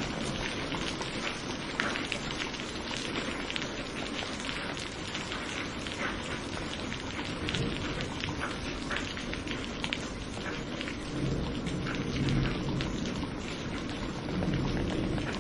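Steady heavy rain with dense pattering of drops, and low rumbles of thunder swelling up in the second half.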